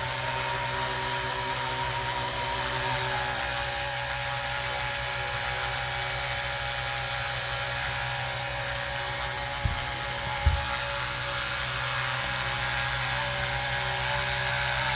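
Small RC ERA 1:48-scale Huey RC helicopter flying, its electric motor and rotors whining steadily under a heavy lift load of about 113 grams, close to the model's own weight. Two brief low thumps come a little past the middle.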